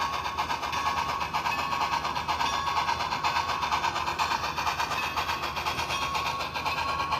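HO scale model train running on the layout's track: a steady mechanical whir with a constant high tone and fine, rapid, even ticking.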